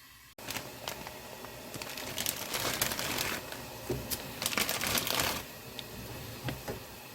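Plastic packaging crinkling and rustling as it is handled, with scattered small clicks and two louder bouts of crackling near the middle.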